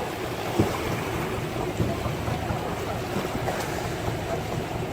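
Rough sea water rushing, with wind buffeting the microphone: a steady rushing noise with a short knock about half a second in.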